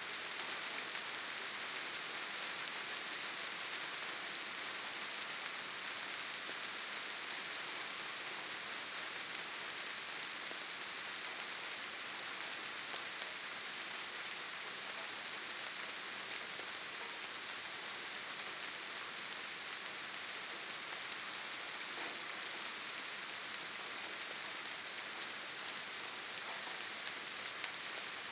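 Steady rainfall: a constant, even hiss of rain with faint scattered drop ticks.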